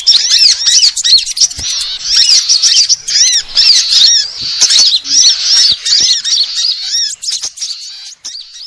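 Bird-lure recording of small songbirds: a dense, unbroken chorus of rapid, overlapping high chirps and squeaky calls, played to draw small birds in. It fades near the end.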